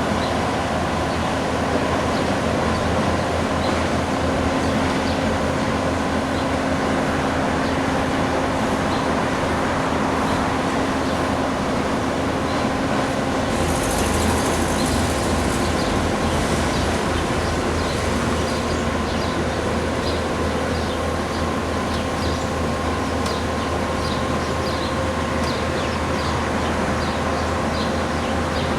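Bobcat skid steer loaders working a road-milling job: steady diesel engine and hydraulic drive noise with constant whining tones over a dense mechanical din. A high hiss rises for a couple of seconds about halfway through.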